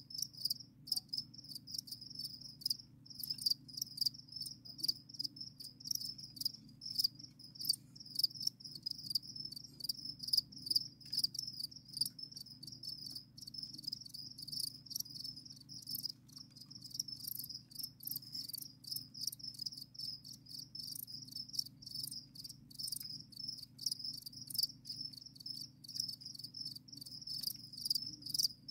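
Several crickets chirping together in their rearing container: a dense run of high-pitched pulsed chirps that overlap without pause. A faint low hum sits underneath.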